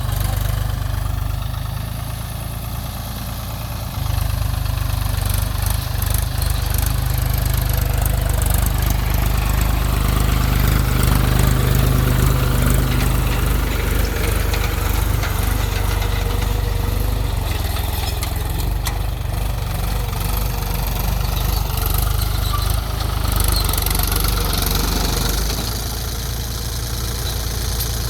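Mahindra 275 TU tractor's three-cylinder diesel engine running steadily under load while pulling a tine cultivator. It gets louder about four seconds in and eases off slightly near the end.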